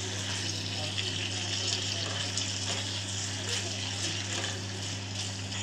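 Sliced bell peppers and onions in a thick sauce sizzling steadily in a steel kadhai while being stirred with a wooden spatula, with light scraping taps of the spatula against the pan.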